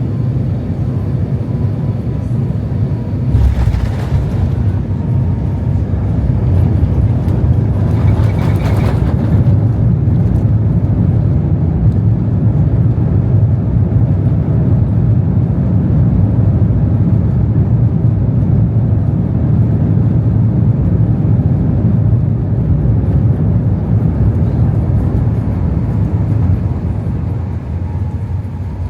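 Airbus A350-900 cabin noise during landing: a thump about three and a half seconds in, the touchdown, followed by a louder steady rumble of the landing rollout that eases near the end.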